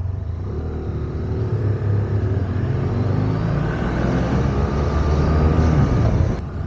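Parallel-twin motorcycle engine running on the move, its revs rising and falling, over a steady rumble of wind and road noise; the sound drops off abruptly near the end.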